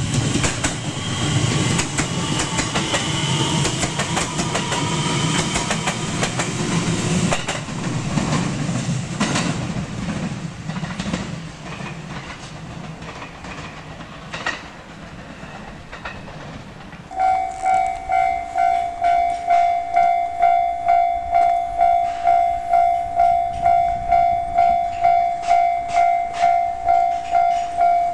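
A limited-express electric train passes close by, its wheels clicking over the rail joints, and the rumble fades away. Then an electronic level-crossing warning bell starts and dings steadily, about one and a half times a second.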